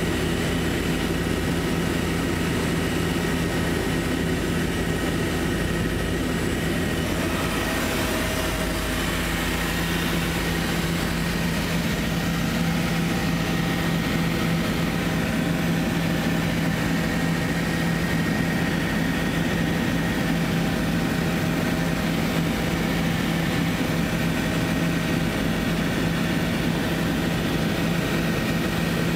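Helicopter engine and rotor running steadily: a loud, even drone with a constant low hum.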